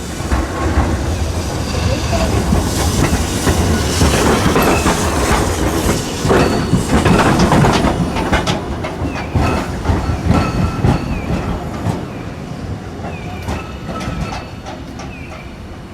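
Hiroshima Electric Railway streetcar running on its rails, wheels clacking over rail joints. It builds to its loudest about halfway through, then fades away.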